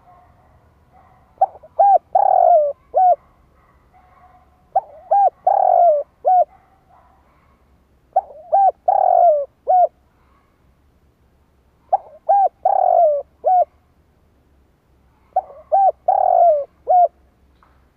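Spotted dove cooing: five repeated phrases, each a few short coos around one longer, louder falling coo, coming about every three and a half seconds.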